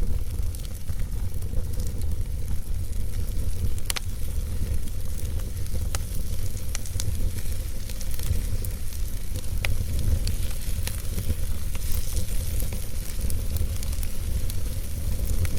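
Wood fire burning in a fireplace: a steady low rumble and hiss with scattered sharp crackles and pops, a few every couple of seconds.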